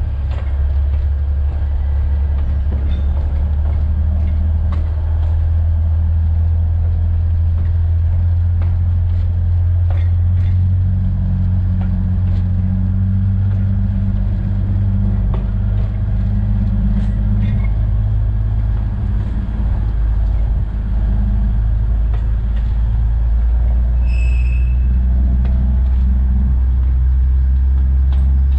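Alishan Forest Railway train running steadily, a loud low drone of its diesel engine and running gear heard from the cab, with scattered light clicks. About 24 seconds in comes one brief high-pitched tone.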